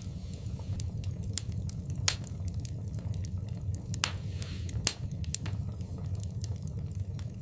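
Wood fire crackling in a fireplace: a steady low rumble of the flames under frequent sharp pops and snaps, two of them louder, about two seconds in and near five seconds in, with a brief hiss just before the second.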